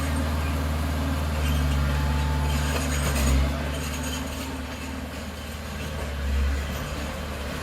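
Heavy diesel earthmoving machine engine running with a low steady drone, swelling briefly about three seconds in and again near the end.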